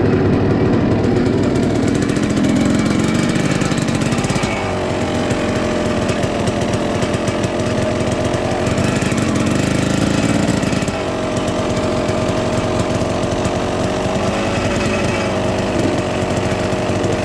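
Dirt bike engine running loudly with a fast, rough firing pulse, its engine speed shifting about four seconds in and again about eleven seconds in.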